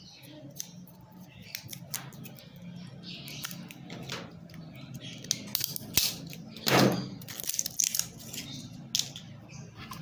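Hands handling small hard objects: scattered clicks, taps and short rustles, busier in the second half, with a louder scrape just before seven seconds, over a steady low hum.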